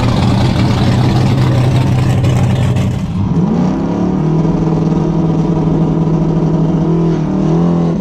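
Race-prepared Mercury Cougar's V8 engine running at a fast idle. About three seconds in the engine note rises and holds at higher revs, dipping briefly near the end.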